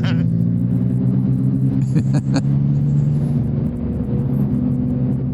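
Motorcycle engine running at a steady cruise, heard from the rider's bike-mounted mic with wind rumble, with a few short clicks about two seconds in and the engine note easing slightly near the end.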